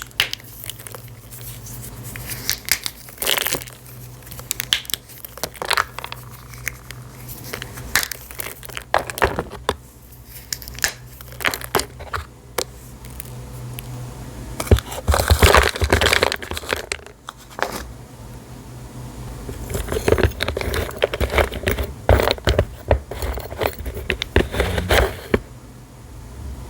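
Assorted dry, crumbly pieces snapping and being crushed into crumbs: a string of sharp cracks, thickening into dense crunching about halfway through and again near the end.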